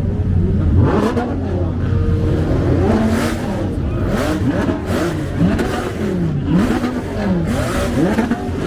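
Car engines revved over and over, the pitch climbing and dropping in quick sweeps about once a second over a steady low rumble.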